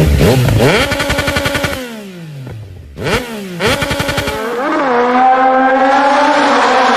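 Yamaha MT-09's three-cylinder motorcycle engine revved through its exhaust: a quick rise in pitch held for about a second, a falling run-down, two short throttle blips around three seconds in, then a longer, steady pull with the pitch slowly climbing from about four and a half seconds.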